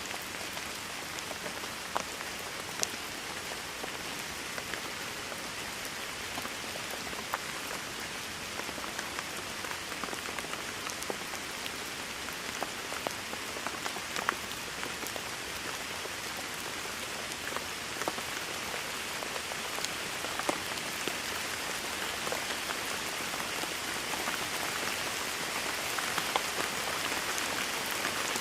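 Steady rain falling: an even hiss with scattered sharp drops, slightly louder over the last few seconds.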